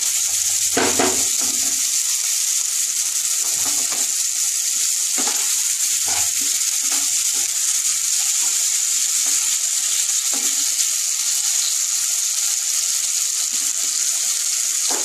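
Onions, tomato and green chillies sizzling steadily as they fry in oil in a nonstick kadai, with a few scrapes and knocks of a wooden spatula stirring them against the pan.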